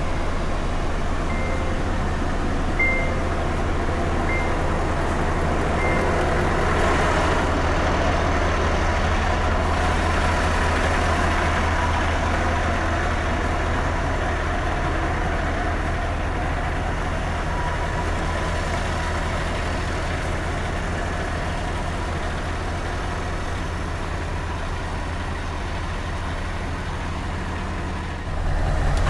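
Scania S truck engine with open exhaust pipes, running steadily on the move with a deep rumble. A short beep repeats about every second and a half during the first six seconds. Near the end the engine note gets suddenly louder.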